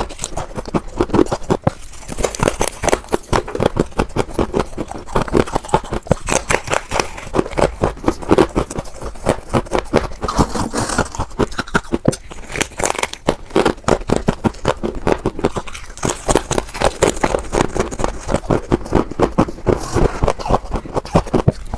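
Close-up crunching of scraped refrigerator freezer frost ice being bitten and chewed: a dense, fast run of sharp crackles and crunches.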